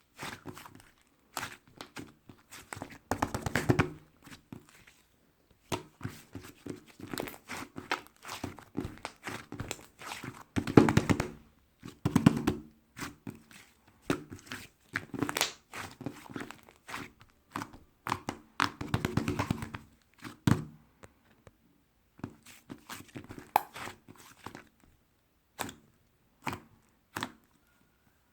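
Hands squishing, poking and pulling slime: many sticky clicks, crackles and squelches, coming in clusters with short pauses.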